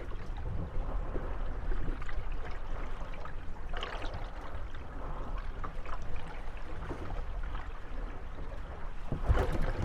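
Harbour water lapping and sloshing against moored gondolas rocking on the waves, with a brief louder slosh about four seconds in and a bigger swell near the end.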